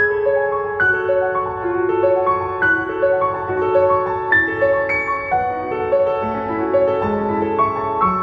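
Soft solo piano music: a slow melody of single notes and chords, each struck and left to ring.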